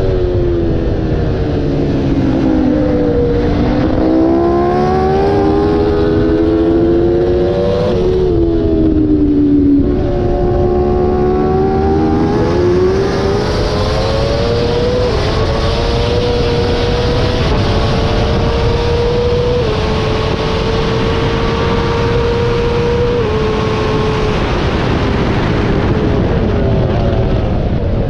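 Superstock-spec Honda Fireblade's inline-four engine at racing speed: the pitch falls under braking for the first few seconds, climbs hard again, dips once more and then rises strongly about ten seconds in, holding high with small steps as it shifts up through the gears, over a steady rush of wind.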